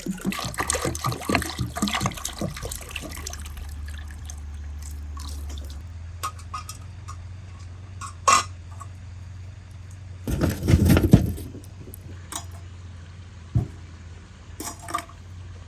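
Liquid splashing and dripping, dense for the first few seconds, then scattered knocks and one louder rustling burst about ten seconds in.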